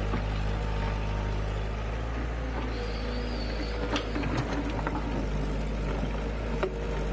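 A machine engine, likely on heavy farm equipment, running steadily with a low hum, with scattered light clicks and knocks.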